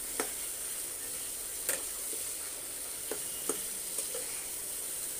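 Potato wedges frying in spiced oil in a nonstick wok, a steady sizzle, while a metal spatula stirs them, scraping and clicking against the pan several times. This is the masala being sautéed (kasha) with the potatoes.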